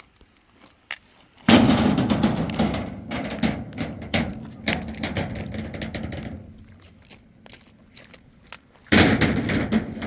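Loose stones tumbling and clattering together in a sudden heavy pour that dies away over a few seconds, then a second shorter pour near the end.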